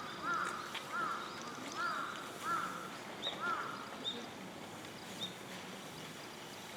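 Japanese macaques (snow monkeys) giving a string of short rise-and-fall coo calls, several a second apart, thinning out after about three seconds. A few shorter, higher chirps come in between.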